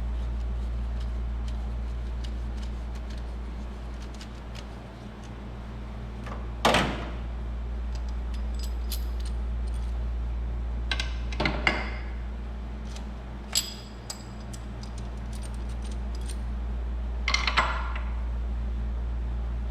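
Metal tools and valve-train parts clinking and clattering in short bursts, four or five times, over a steady low hum.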